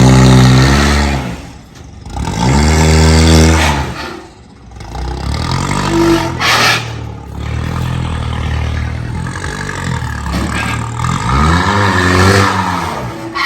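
A motor vehicle engine revving up and dropping back again, about four times. A short hiss comes about six and a half seconds in.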